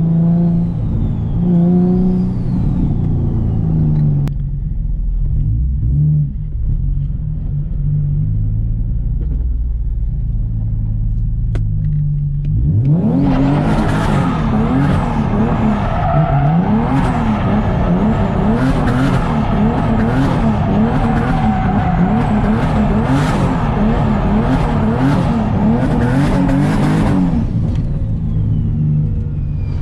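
The engine of a 600 hp turbocharged Nissan 370Z, a 3.7-litre V6, running at low revs at first. About 13 seconds in, it is pushed hard and its revs rise and fall again and again for about a quarter of a minute, with a loud hiss over the top. It settles back to a low run near the end.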